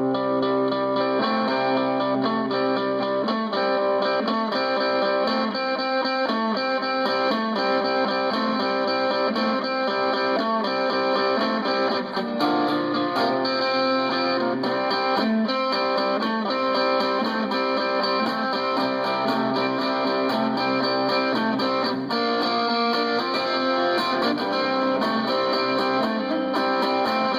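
Guitar music: a guitar, likely electric, playing chords and notes without a break.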